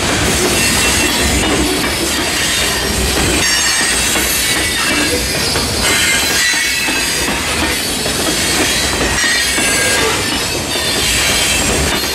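Open steel hopper cars of a stone train rolling past at close range, their wheels rumbling and clattering steadily on the rail.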